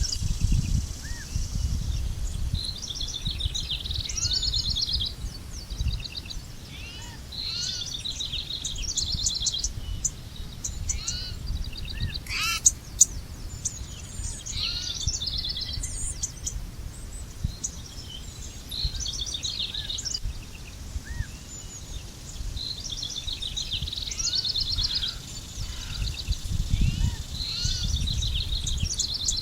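Songbirds singing outdoors, repeating quick trilled phrases with short chirps in between, over a low rumble of wind noise. There is one sharp click a little before halfway.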